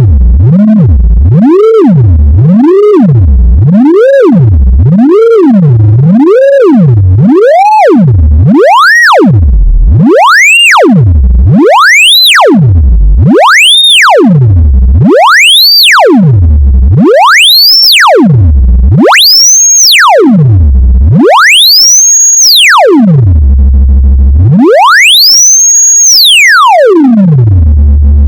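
Loud generated sine tone sweeping up and down in pitch over and over, each sweep climbing higher and lasting longer: quick low sweeps of about one a second at first, slow glides up to a high whistle by the end. It is a speaker-cleaning tone, meant to vibrate water and dust out of a phone speaker.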